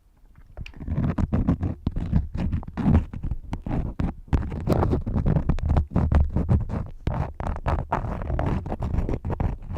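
Crayons scratching and scribbling close up on the microphone in quick, irregular strokes with a rumbly low end, starting about a second in.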